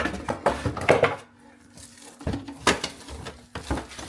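Knocks and clatter of a coffee machine and its packaging being handled while it is unpacked: a few sharp knocks in the first second, a short lull, then two more knocks.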